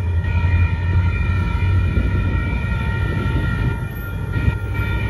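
An approaching Union Pacific diesel freight train's low, steady rumble under a chord of steady high warning tones from the activated grade crossing.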